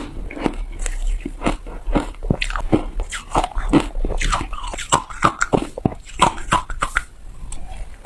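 Ice being bitten and crunched between teeth close to the microphone: a quick, irregular run of crisp cracks and crunches, several a second.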